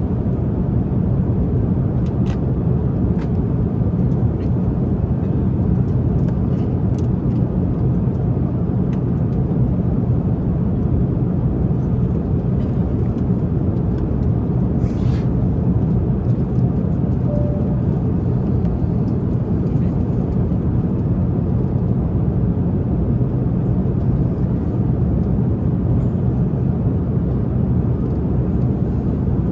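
Steady low drone of an airliner cabin in flight, with a few faint light clicks and a brief soft hiss about halfway.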